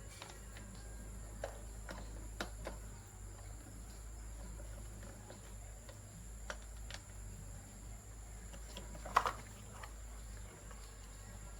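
Light scattered clicks and taps of small parts and hand tools being handled, the loudest a sharp knock near the end. Underneath, a steady high-pitched insect drone and a low hum.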